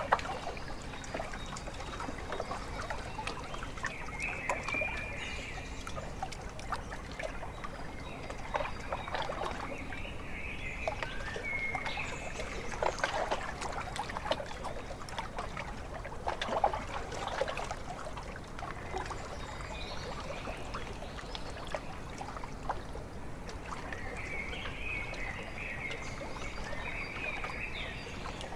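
Small lake waves lapping and splashing irregularly against the shore, with short bursts of bird chirping three times.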